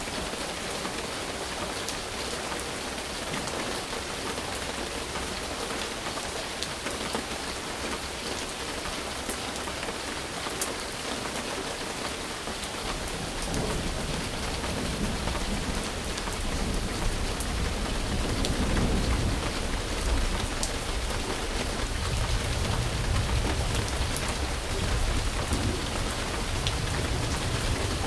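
Steady rain falling, with scattered sharp drop ticks. About halfway through, a low rumble of thunder comes in and keeps rolling.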